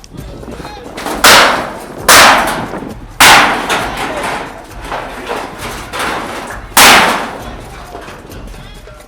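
Four loud, sudden bangs, about a second apart and then one more a few seconds later, each tailing off briefly.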